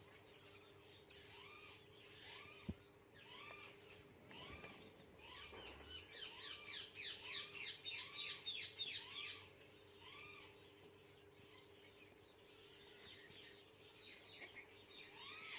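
Bird calls: short, rising-and-falling call notes repeated about once or twice a second. About six seconds in comes a burst of rapid, high, trilled chirps that lasts a few seconds.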